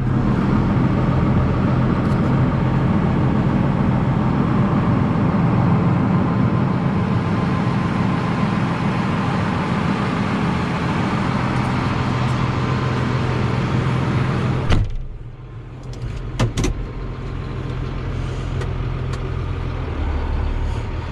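John Deere 7810 tractor's 6081 six-cylinder diesel engine running steadily as the tractor pulls away slowly. About 15 s in, a sharp knock, after which the engine sounds quieter and more muffled, followed by a couple of small clicks.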